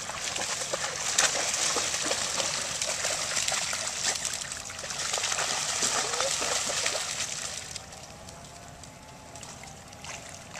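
Dogs splashing and wading in shallow river water, with many quick splashes over running water; about eight seconds in the splashing dies away, leaving quieter flowing water.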